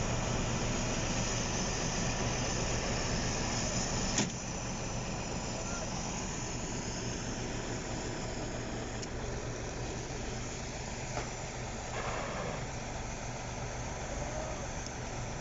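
Heavy tractor engine running steadily, with a sharp click about four seconds in, after which it sounds a little quieter.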